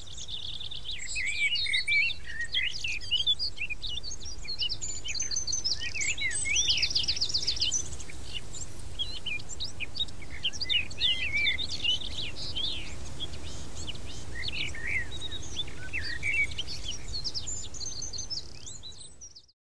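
Several songbirds singing and chirping over one another, with a fast trill about six seconds in, above a low steady outdoor rumble. The whole fades out just before the end.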